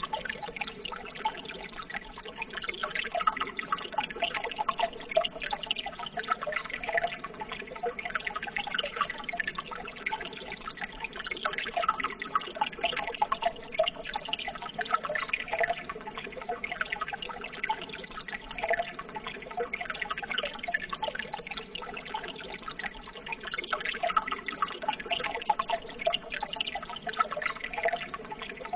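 Running water trickling and babbling steadily, full of small splashes and drips.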